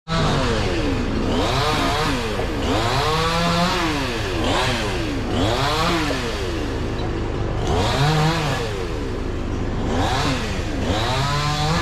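A chainsaw engine revved up and down over and over, its pitch climbing and falling about once a second, as it cuts wood.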